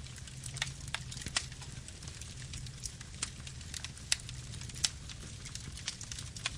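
Campfire burning: a steady low rumble of flames with irregular sharp crackles and pops from the burning wood, about ten of them spread through.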